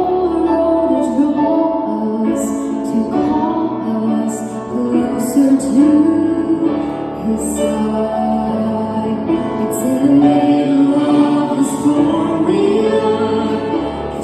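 A song sung with instrumental accompaniment.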